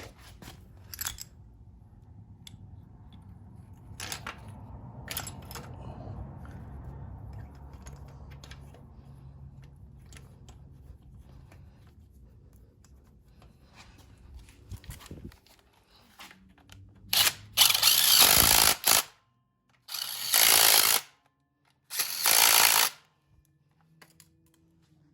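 A power tool runs in three short bursts of about one to two seconds each in the last third, the loudest sound here. Before that there is a low rumble with scattered clicks and knocks of hand tools.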